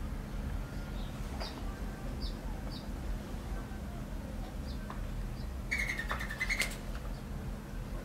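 Birds chirping with short, high notes scattered through, and a louder, rapidly pulsing sound lasting about a second a little past the middle. A steady low hum runs underneath.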